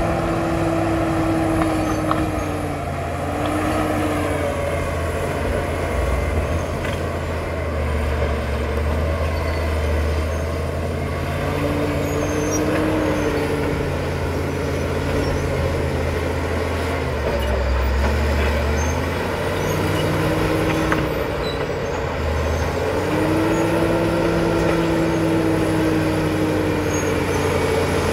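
Caterpillar D7 bulldozer's diesel engine running steadily while working, with a whine that rises in and fades out several times.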